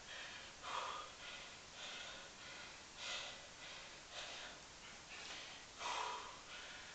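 A man breathing hard, with short noisy breaths in and out about once a second or faster: heavy breathing from the exertion of a long set of one-leg pistol squats.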